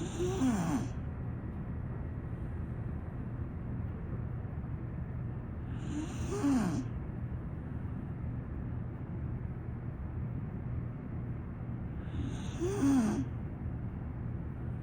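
A small pit bull-type dog snoring in its sleep: three snores about six seconds apart, each lasting about a second, with a pitch that rises and then falls. A steady low hum runs underneath.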